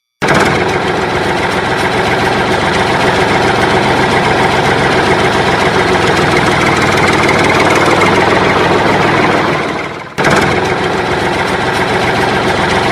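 Engine idling steadily, with a brief dip about ten seconds in before it runs on at the same level.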